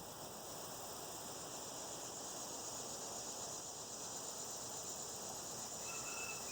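A steady insect buzz and hiss. A short, high chirp comes near the end.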